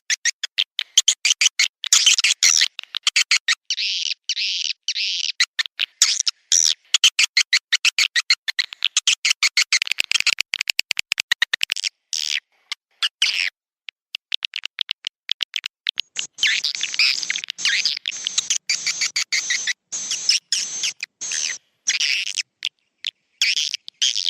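Swiftlet roosting-call lure recording: dense, rapid trains of swiftlet chirps and clicks, pausing briefly about halfway through. This kind of track is played in swiftlet houses to draw the birds in to roost.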